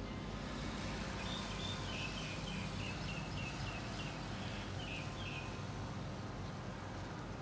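A bird calling a quick run of about ten short, high chirps, starting about a second in and stopping about five seconds in, over steady low background noise.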